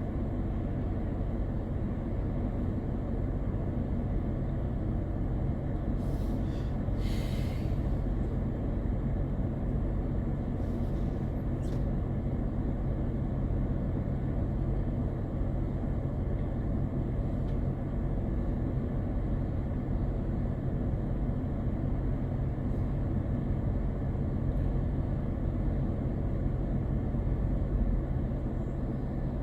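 Steady low drone of a car driving at speed, with road and engine noise heard from inside. Short hisses break in about six to seven seconds in and again around eleven seconds.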